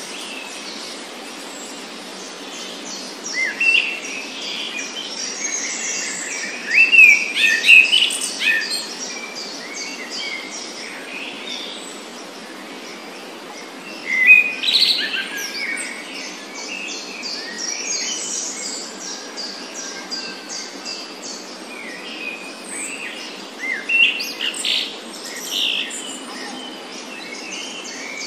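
Several small birds chirping and singing in short, quick calls that come in scattered bursts, over a steady faint hiss.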